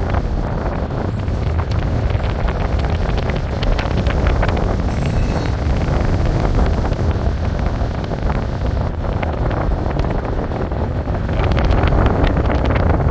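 A train passing close by: a steady loud rumble with rapid sharp clicks and clatter, bunched in the first few seconds and again near the end, with wind buffeting the microphone.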